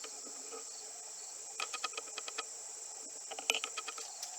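Crickets chirping steadily in a high, thin band, with a couple of short runs of quick clicks.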